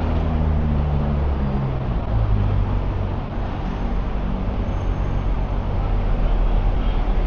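Street traffic: a vehicle engine running close by, its low hum stepping down in pitch in the first two seconds, over steady road noise.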